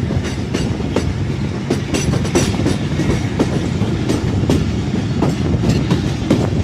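Passenger train running along the track, heard from the carriage door: a steady loud rumble of the wheels with irregular sharp clacks over the rail joints.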